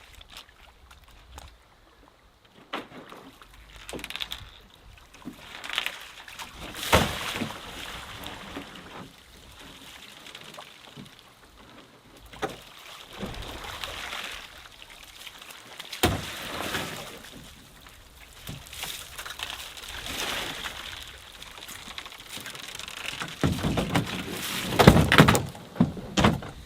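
Water sloshing and pouring in irregular surges as a swamped boat is tipped to empty it while still afloat, the water slopping back in. The surges are loudest near the end.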